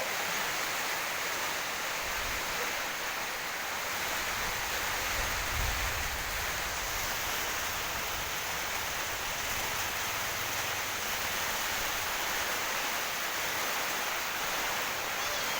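Heavy rain falling steadily, an even hiss and patter, with a low rumble between about two and seven seconds in.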